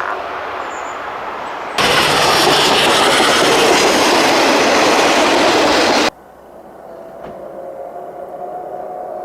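A steam locomotive's whistle dies away. About two seconds in, a loud rush of train noise with wheels clattering starts suddenly and cuts off just as suddenly about four seconds later. After that, fainter steady whistle tones slowly grow louder.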